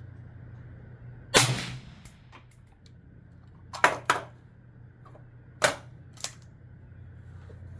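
5.56 rifle firing through a B&T VERS36 titanium suppressor: six sharp reports at an uneven pace, the first about a second and a half in and the loudest.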